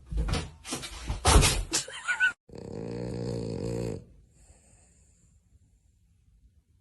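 A few loud knocks and clatters, then an animal snoring: one long snore lasting about a second and a half, followed by quiet.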